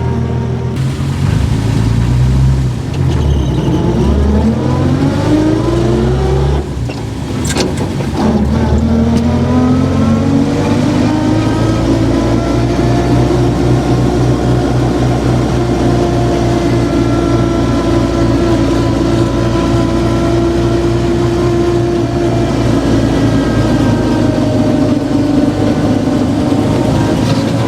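Vintage car's engine accelerating, its pitch climbing, dropping back at a gear change about seven seconds in, then climbing again and settling into a steady run.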